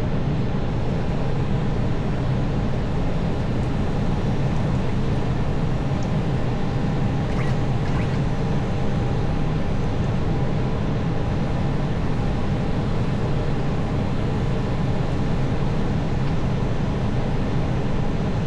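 Steady airflow and engine noise inside an Airbus airliner's flight deck on final approach.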